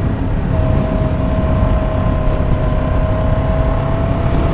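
Motorcycle engine running under way, its note climbing slightly in pitch, over a heavy, steady low rumble.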